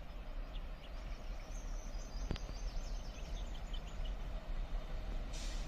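Outdoor ambience: a steady low rumble with faint, scattered bird chirps and a single sharp click about two seconds in.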